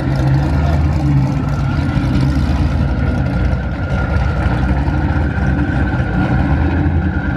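Car engine running at a steady low drone, with no revving.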